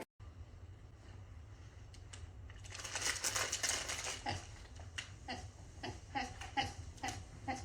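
A rustle about three seconds in, then a run of soft taps and clicks, roughly one or two a second, over a steady low hum.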